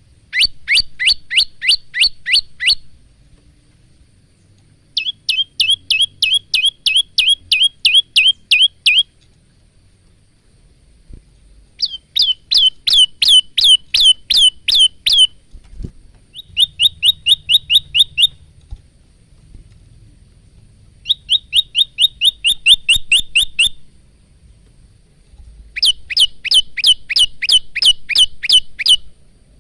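Male prenjak lumut singing: six bouts of rapid, evenly repeated high, sweeping notes, about four a second, each bout lasting two to four seconds with short pauses between.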